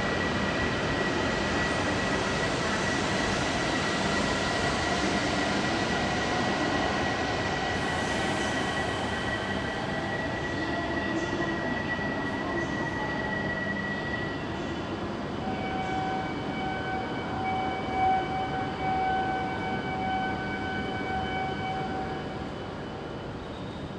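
Shinkansen train noise at the station platform: a steady rumble and hiss with a thin high whine through the first half, then several steady whining tones held together for a few seconds past the middle.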